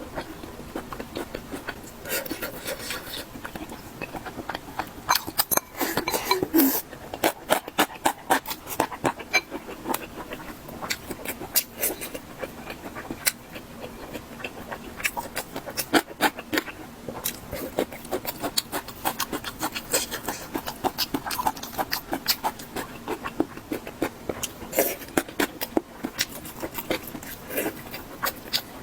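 Close-miked eating sounds: chewing, crunching and wet mouth smacks, a steady run of irregular sharp clicks as a spicy stir-fried mala xiang guo is eaten.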